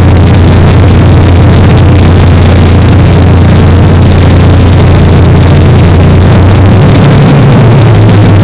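A motor running steadily at a loud level, with its pitch shifting about seven seconds in.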